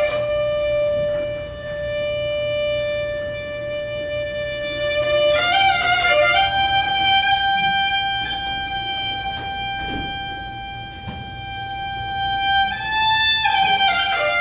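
A bowed string instrument playing slow, long-held notes. It holds one note for about five seconds, slides up to a higher note and sustains it, then bends back down near the end.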